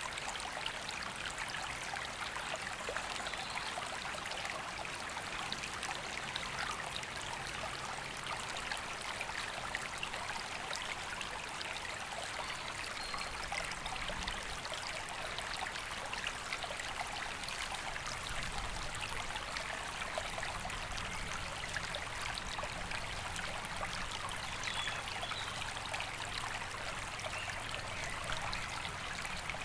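A river flowing steadily: an even, unbroken rush of running water.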